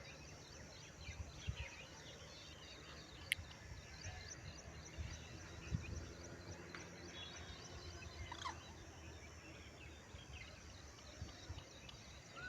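Faint outdoor ambience with scattered short bird chirps and a few soft low thumps; a single sharp click about three seconds in.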